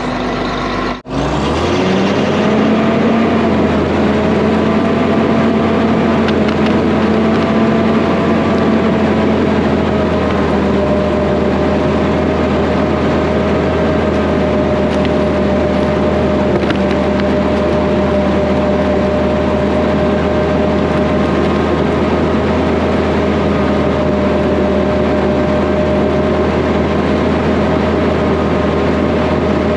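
Diesel engine of a John Deere 850 crawler dozer revving up about a second or two in, then running steadily at a constant pitch for the rest of the time.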